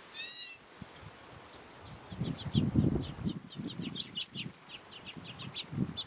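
Small birds chirping: a quick run of short, high chirps from about two seconds in, after one brief, slightly falling call at the very start. Under the chirps come irregular low rumbling bursts, which are the loudest sound.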